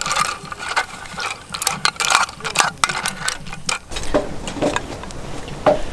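Irregular quick clicks, clacks and rustles of small objects being handled and knocked together, denser in the first half and sparser after about four seconds.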